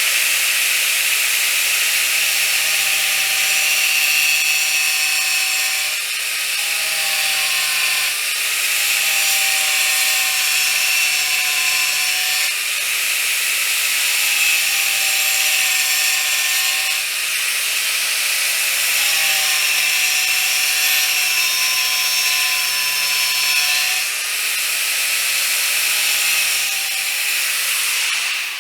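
Angle grinder cutting small grooves into the ends of wood cabinet boards: a steady high motor whine whose pitch sags and recovers several times as the disc bites into the wood. It stops near the end.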